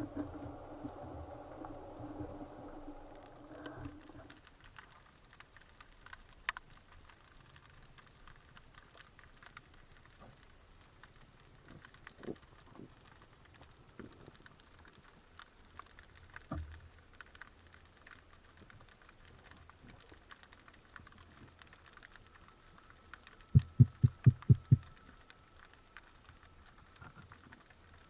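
Underwater ambience: a faint, dense crackle of small clicks. A low hum fades out about four seconds in, and about two thirds of the way through comes a quick run of six loud, low knocks.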